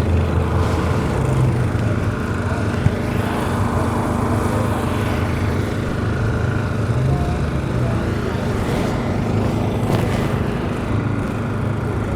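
An engine running steadily, with a low rumble and a constant hum; a single sharp click about ten seconds in.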